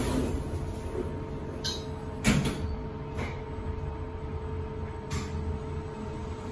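Schindler machine-room-less goods lift: a steady hum from the car and its machinery, broken by a few sharp door clunks and clatters. The loudest clunk comes about two seconds in.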